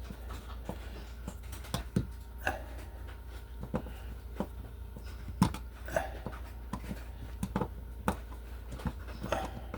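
Hand tools being handled and rummaged through: irregular sharp clicks and light metallic knocks, one or two a second, over a steady low hum.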